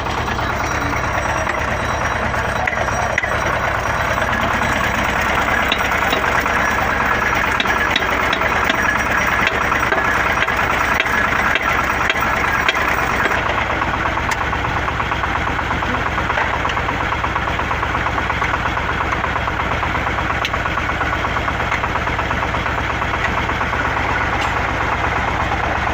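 XY-3 water well drilling rig running: its engine drones steadily with a fast, even knock, the sound shifting slightly about halfway through.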